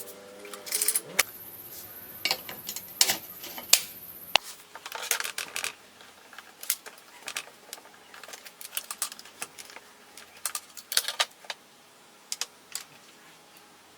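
Metal parts and hand tools of an old circular saw clicking and clinking in a string of irregular sharp knocks, with a thin high whine for about three seconds near the start.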